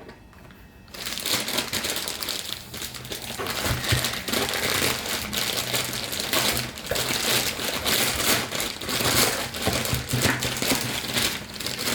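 Irregular crinkling and rustling, starting about a second in and going on in uneven bursts.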